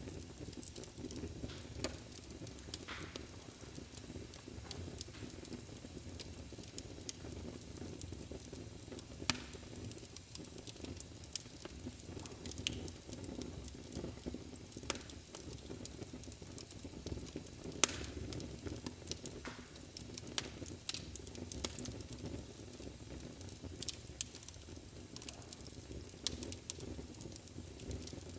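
Wood fire burning in a fireplace: a steady low rumble of flames with irregular crackles and snaps, a few sharper pops standing out.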